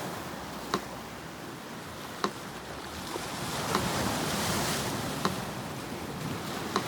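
Sea surf washing steadily, swelling about midway, with a metronome ticking slowly over it: five sharp ticks, one every second and a half.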